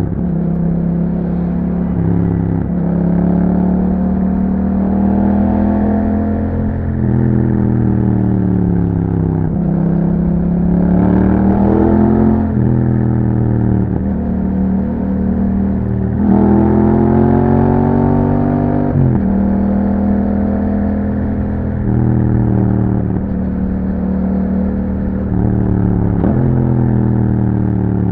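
2021 Yamaha MT-07's 689 cc parallel-twin engine, breathing through an Akrapovic exhaust, on the move. The revs climb and fall over and over: the pitch rises under throttle and drops sharply at each gear change or as the throttle is rolled off.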